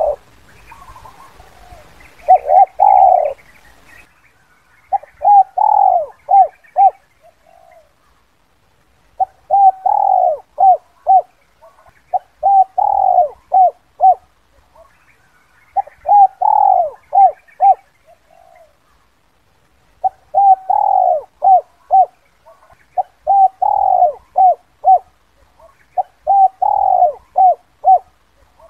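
Spotted dove cooing in repeated phrases every few seconds. Each phrase is a longer opening coo followed by a quick run of shorter coos: the 'kuk 2' call used as a lure to bring wild doves down.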